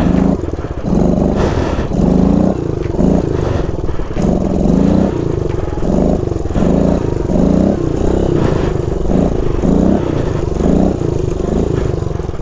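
Small four-stroke single-cylinder Kawasaki KLX pit bike engine being blipped over and over, its pitch rising with each throttle stab about every three quarters of a second: the rider working the throttle and clutch while trying to lift a wheelie.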